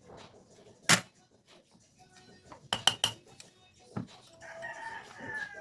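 Sharp clicks of small metal carburetor parts and tools being handled: one about a second in, then three quick ones in a row midway. Near the end a rooster crows in the background, one drawn-out call that falls slightly in pitch.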